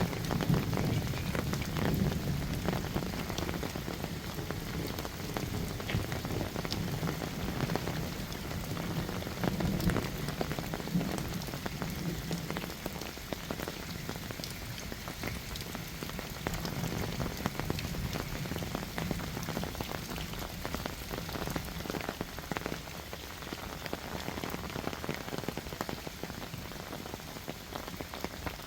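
Heavy rain falling steadily, a dense patter of countless drops, somewhat heavier in the first half.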